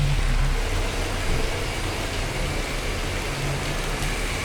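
Steady rain falling with a constant hiss, over a low, continuous rumble.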